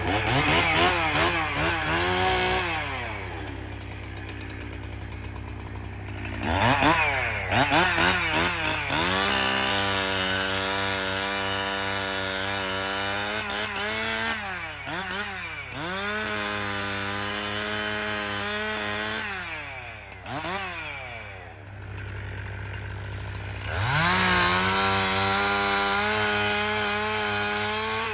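Chainsaw cutting through the trunk of a balsam fir. Its engine revs up in several bursts, near the start, around a third of the way in and again near the end. The pitch sags and wavers as the chain bites into the wood, with lower dips toward idle in between.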